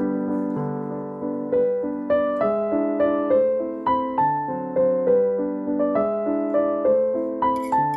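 Background piano music: a gentle melody of single notes struck and left to ring, a little over two notes a second.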